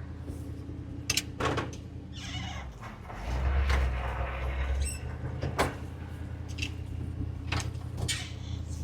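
Camper truck's V8 engine idling steadily. Its low rumble swells for a couple of seconds a little past three seconds in, and a few sharp clicks or knocks sound over it.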